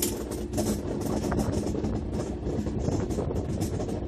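Running sound of a passenger train heard from aboard the moving coaches: a steady low rumble of wheels on the rails with rapid, irregular rattling and clatter over it.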